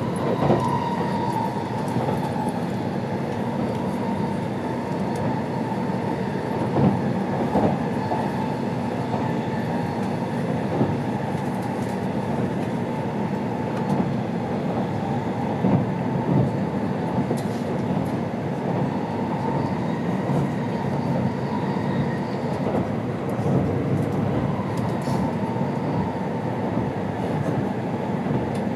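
Running noise inside the passenger car of an N700 Series Shinkansen at speed: a steady rumble and hiss with a faint high hum, and a few brief light knocks from the running gear.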